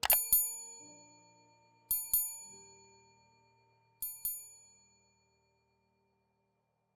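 A small bell struck in three pairs of quick double strokes about two seconds apart, each pair ringing out high and fading away.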